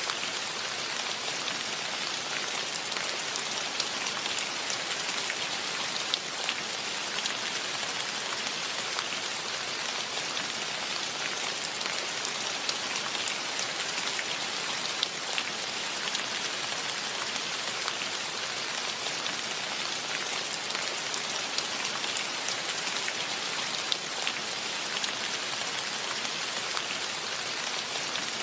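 Steady rain, a dense even hiss with many individual drop ticks on top.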